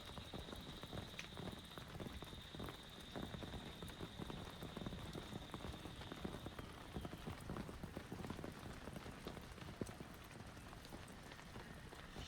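Rain pattering, with many separate drops ticking against a surface. A steady high-pitched whine runs beneath it and stops about six and a half seconds in.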